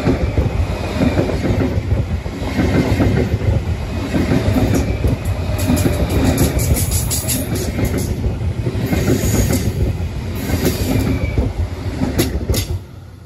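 A train passing close by, its wheels rumbling and clattering over the rails, with a thin high squeal from the wheels through most of the pass and a few sharp clacks near the end.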